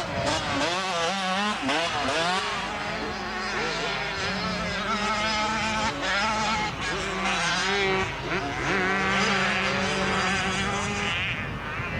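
Several motocross motorcycle engines revving up and down as they race, their overlapping engine notes rising and falling in pitch.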